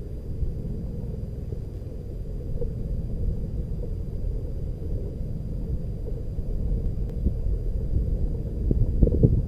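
Wind buffeting the microphone during a bicycle ride: an uneven low rumble that grows louder near the end.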